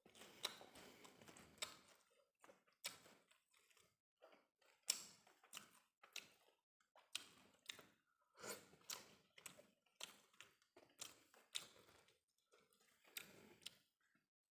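Quiet close-up chewing of a mouthful of steamed rice eaten by hand, with irregular wet lip smacks and mouth clicks.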